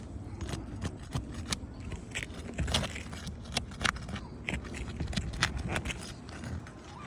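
Metal roof snake tool working under asphalt shingles, prying them loose and breaking their sealant bond. It makes irregular sharp clicks and short scrapes over a steady low rumble.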